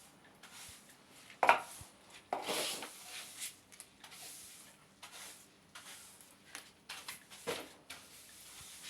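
Irregular knocks, clicks and short scrapes of hard objects being handled, the loudest about a second and a half in, with a longer scrape just after.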